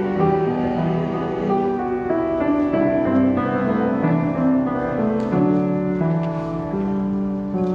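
Church service music led by piano, with sustained chords that change about once a second.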